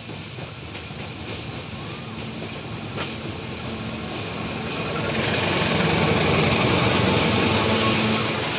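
Diesel locomotive drawing a passenger train approaches and passes close by. Its engine hum and the rumble of its wheels on the rails grow steadily louder, with a sharp click at about three seconds in. The train is loudest as the locomotive and first coaches go by, wheels clattering as they cross the points from one track to the other.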